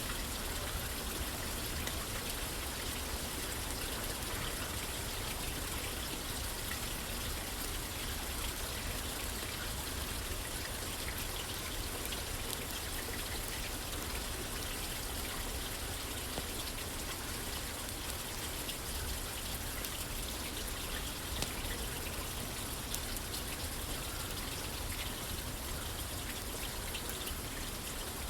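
Steady rain pattering on a roof, an even hiss of drops, with a few faint sharp ticks here and there.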